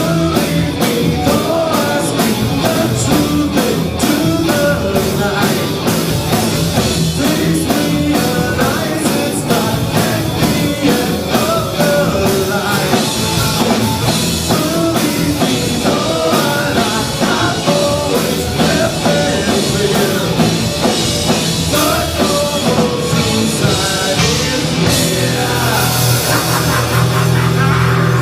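Rock band playing live: drum kit keeping a steady beat under guitars, with a voice singing over them.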